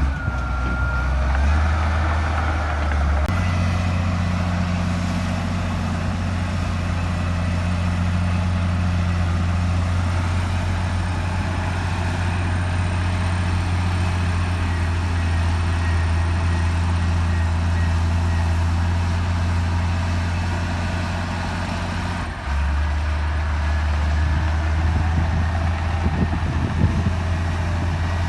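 Bulldozer's diesel engine running under steady load. Its low note shifts up about three seconds in and drops back a few seconds before the end, as the machine works the dirt.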